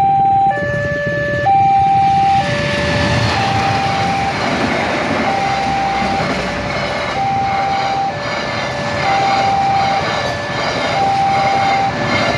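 Railroad crossing warning alarm sounding a two-tone signal, alternating high and low about once a second. From about two seconds in, a train passing the crossing adds a loud rushing rumble of wheels on rails under the alarm.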